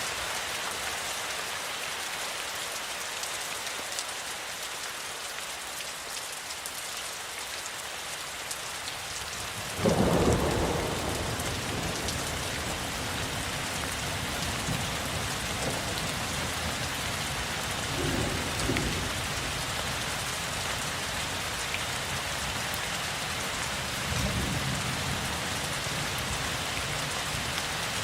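Steady rainfall hissing, with a sharp thunderclap about ten seconds in that trails off into low rolling rumbles, swelling again twice later on.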